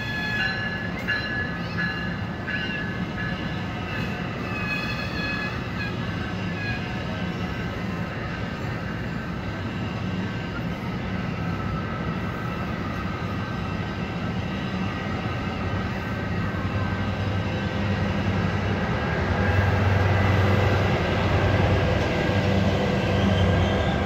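Exo commuter train's bilevel coaches rolling past on the rails, with a high squeal in the first few seconds. From about 19 seconds in, the diesel locomotive at the end of the train comes by, its engine drone growing louder.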